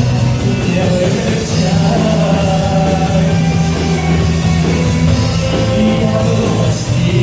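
Rock band playing a song live, with steady bass and a voice singing over it.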